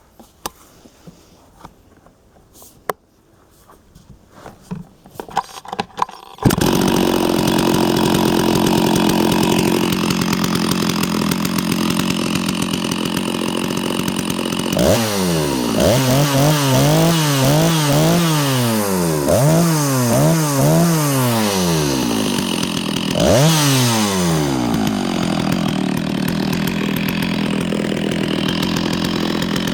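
Stihl MS660 two-stroke chainsaw with a dual-port muffler starting about six seconds in after a few quiet clicks, running, then revved up and down about seven times in quick succession before settling back to a steady fast idle. The owner finds the idle a little high for a saw carrying a 36-inch bar.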